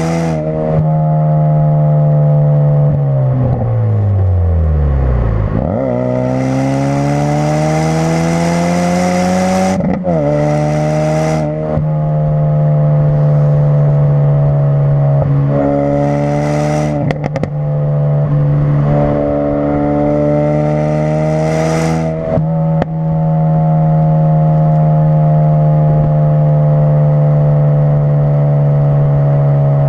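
Ford Focus RS's turbocharged 2.3-litre four-cylinder through a custom-built exhaust, engine note falling steeply as the car slows, then climbing as it accelerates, with brief dips at the gear changes, before settling to a steady cruise for the last several seconds.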